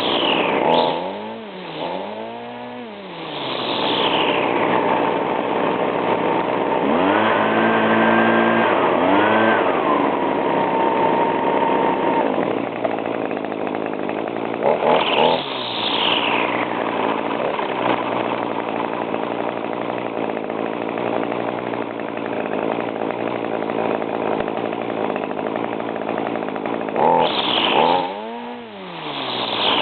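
Small two-stroke engines of handheld yard tools, a string trimmer and leaf blower, running at high revs, the throttle let off and opened again so the pitch drops and climbs back several times: about a second in, around halfway and near the end.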